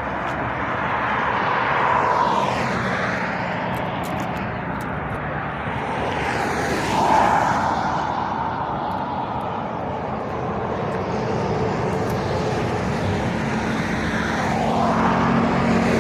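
Road traffic passing at speed: tyre and engine noise swells and fades as vehicles go by, about two seconds in, about seven seconds in and again near the end, where a heavier engine hum builds.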